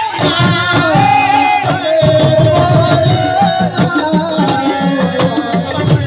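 Live assiko band music: a sustained, gliding melody, sung or played, over a driving hand-drum rhythm.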